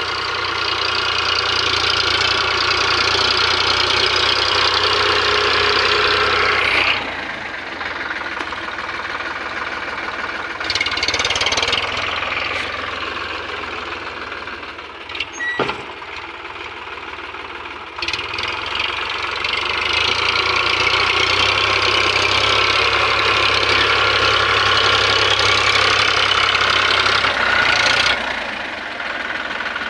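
Eicher tractor's diesel engine running, working louder for the first several seconds, easing to a quieter run in the middle, then louder again for about ten seconds before easing once more near the end. A single sharp click sounds in the quieter middle stretch.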